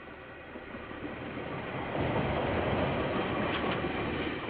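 KiwiRail train passing close by: a rushing rail noise that builds as it approaches and gets loud about two seconds in as the train goes past.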